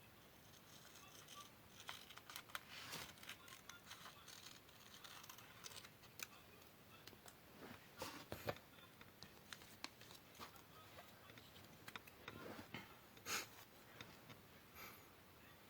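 Faint paper-crafting sounds: scissors cutting card paper and the paper being handled, in scattered small clicks and short rustles, the sharpest about 8 and 13 seconds in.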